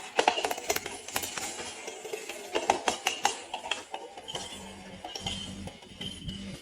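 Metal parts and tools clinking and tapping against each other, an irregular run of sharp metallic clinks with brief ringing.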